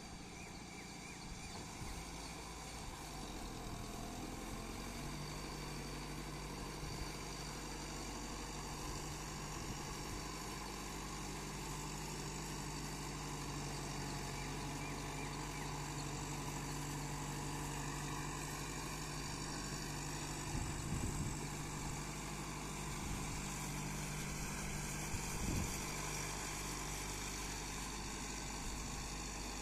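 Kubota MU5501 tractor's four-cylinder diesel engine running with a steady note that settles onto a held low hum about five seconds in. Two brief low thumps come a few seconds apart near the end.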